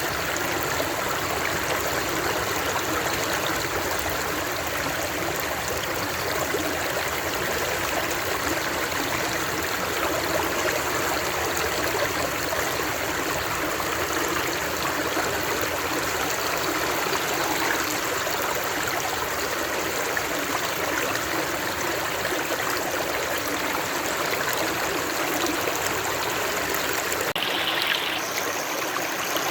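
Water flowing steadily, an even rushing sound with no pauses, changing briefly in tone about two seconds before the end.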